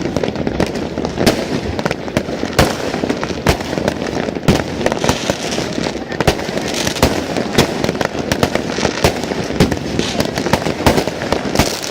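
Fireworks going off, many bangs and pops in quick irregular succession over a continuous rumble of distant explosions and crackle.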